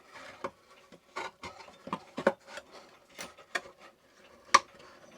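Irregular clicks and knocks of hardware being fitted into a wooden clock case, with a sharp knock about four and a half seconds in.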